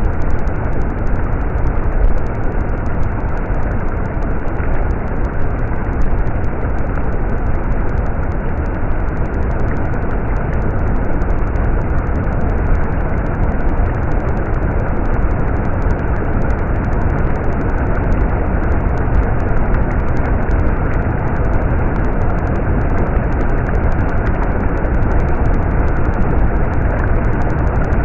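A stream's running water: a steady, loud rush with most of its weight in the low end.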